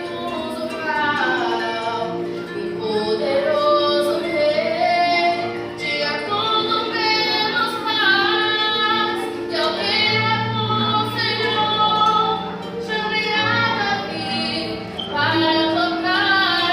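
Gospel hymn sung by a female voice over instrumental accompaniment, the melody carried in long sung phrases over held bass and chord notes.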